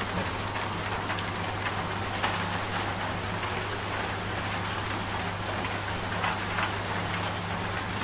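Steady rain falling on a surface, a dense hiss with scattered drops ticking. Underneath runs a low, steady hum from a washing machine.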